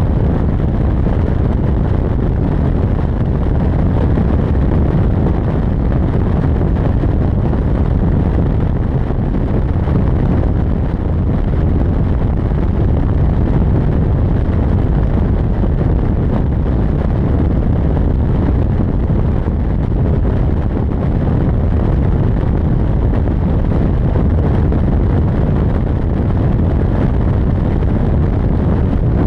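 Ford F350 pickup driving while towing a heavy loaded trailer: a steady low rumble of road, engine and wind noise that stays even throughout.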